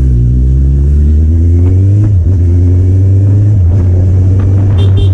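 Kawasaki Z800's inline-four engine, with an Akrapovic exhaust, accelerating under way: the revs climb, drop as it shifts up about two seconds in, climb again and drop at another shift, then hold. A short run of high beeps comes near the end.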